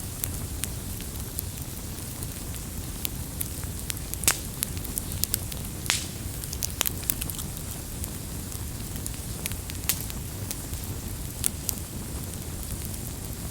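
Wood campfire burning with a steady low rumble and frequent sharp crackles and pops; two pops stand out, about four and six seconds in.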